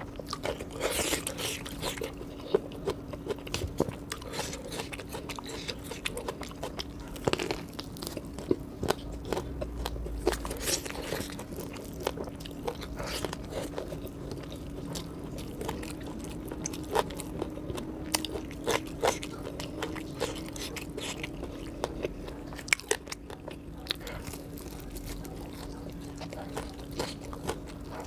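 Close-miked eating: a man biting and chewing crispy fried chicken lollipops and rice, with crunches and clicks coming at irregular moments.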